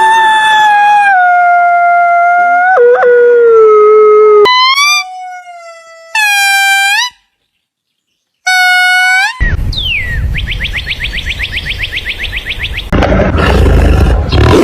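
A run of different animal calls: a long howl that slowly falls in pitch, then three short rising yelp-like calls, then a fast rattling trill of about eight pulses a second, and a loud rough noisy call near the end.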